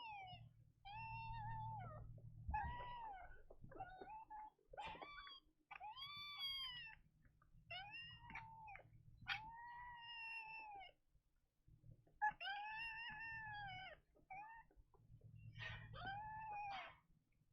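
Young kittens mewing, a dozen or so high-pitched cries, each rising and falling, with short pauses between them.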